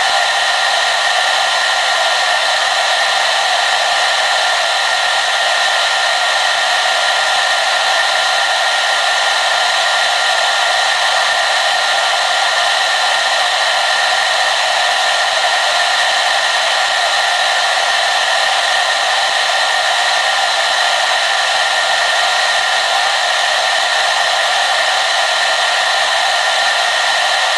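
Hair dryer running steadily on one setting: an even, airy rushing whoosh with a faint high whine of its motor, no change in speed.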